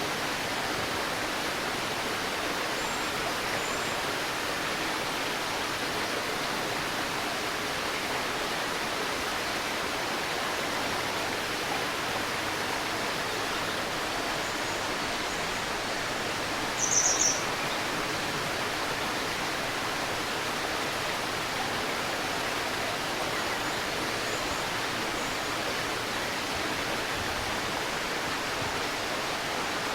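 Steady rushing of a flowing stream. About seventeen seconds in, a bird gives a short, loud burst of high chirps, with a few faint chirps elsewhere.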